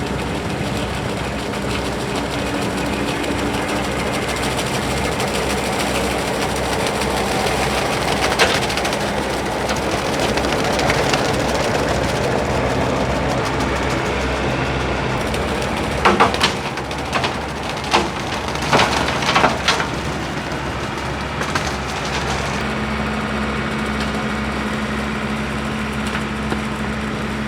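John Deere 4052R compact tractor's diesel engine running steadily, with a cluster of sharp cracks of wood snapping about two-thirds of the way through. The engine note shifts a little shortly after.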